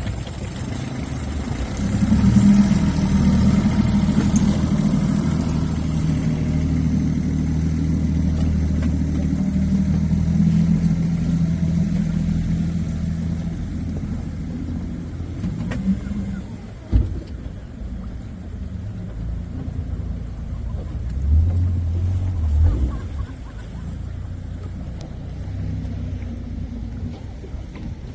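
An engine running with a steady low rumble that swells about two seconds in and fades away over the middle of the stretch, with a single sharp knock shortly after and a brief low swell a few seconds later.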